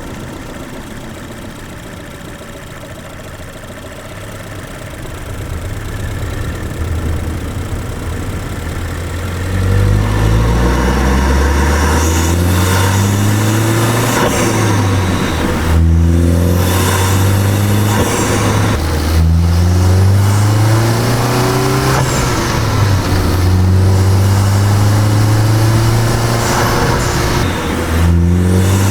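2013 Ford Focus ST's turbocharged 2.0-litre four-cylinder breathing through an aftermarket Green air filter: running quietly at first, then from about ten seconds in accelerating hard, its pitch rising in several long pulls, each broken by a brief dip at a gear change, with turbo and blow-off valve sounds.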